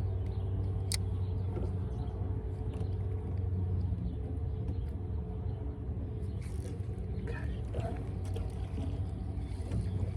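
A motor running steadily with a low, even hum, and one sharp click about a second in.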